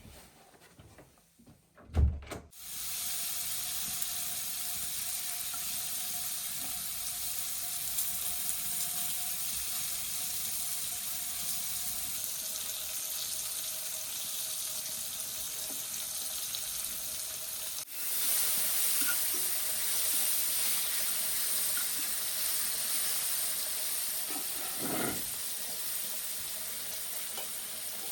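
Water running steadily from a tap, starting suddenly after a knock about two seconds in. The flow breaks off for a moment about two-thirds of the way through, then runs on a little louder.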